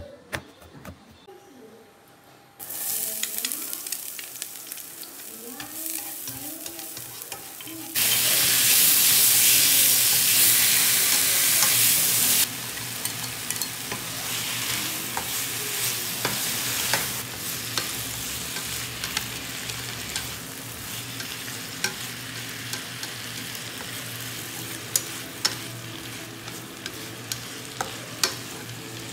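Sliced beef stir-frying in a hot frying pan, stirred with chopsticks. The sizzle starts suddenly between two and three seconds in, jumps much louder for about four seconds as the onion and chive flowers go in, then settles into a steady frying sizzle dotted with light clicks of the chopsticks against the pan.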